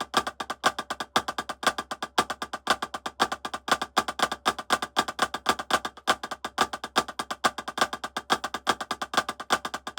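Drumsticks playing inverted flam taps: a fast, continuous run of sharp stick strokes, about eight to ten a second, with some louder strokes among them.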